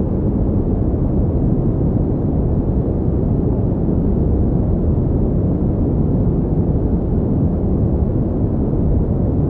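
Steady pink noise: an even, unchanging hiss heavy in the low end, with little treble.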